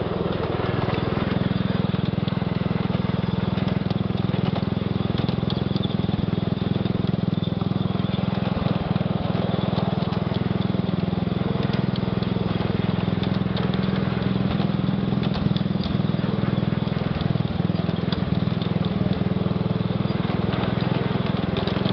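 Ride-on scale switcher locomotive running steadily with a small-engine drone, with scattered clicks and knocks from its wheels on the track.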